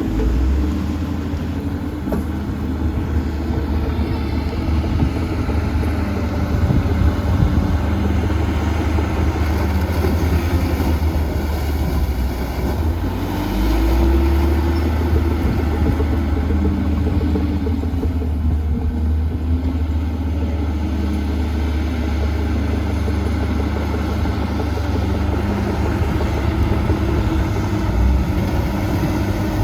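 Diesel engine of heavy earthmoving machinery running steadily under load, its note rising and falling a few times as the machine works.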